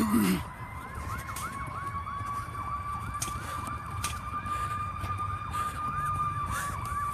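Emergency vehicle sirens sounding together: one long steady wail with a rapid yelp repeating about three times a second over it, as fire engines respond to a vehicle fire.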